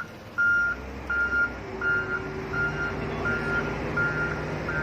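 Reversing alarm of a heavy works vehicle beeping steadily, a single-pitched beep about one and a half times a second, with the vehicle's engine running underneath and growing a little heavier about two seconds in.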